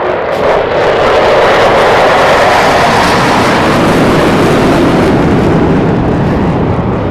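Aircraft passing low overhead: a loud rushing engine noise swells, peaks around the middle and drops in pitch as it goes by.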